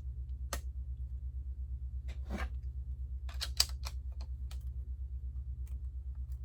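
Plastic Lego bricks clicking and clattering as pieces are handled and pressed into place: scattered sharp clicks, a quick cluster of them with the loudest about three and a half seconds in, over a steady low hum.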